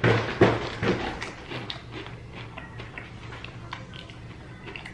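Close-miked crunching and chewing of crispy fried chicken: a few loud crunches in the first second, then quieter chewing with small wet clicks.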